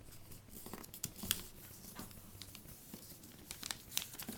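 A sheet of paper crinkling and crackling in scattered small snaps as it is folded and creased by hand, one sharper crackle about a second in.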